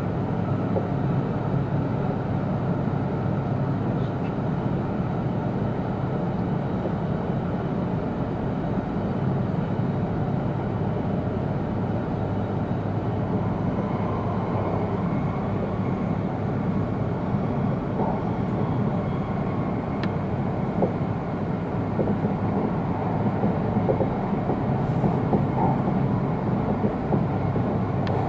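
Steady running noise heard inside the passenger cabin of an E2-series Tohoku Shinkansen car in motion, a constant low rumble with no change in level.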